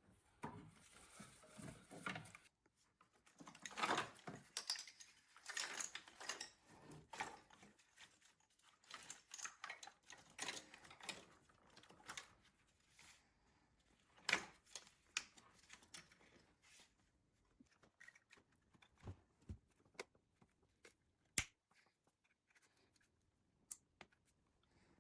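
Faint, irregular clicks and clatter of small hard objects being handled, busier in the first half and thinning to a few sharp single clicks later.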